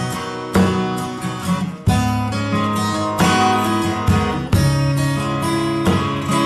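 Acoustic guitar music: strummed chords, each struck roughly once a second.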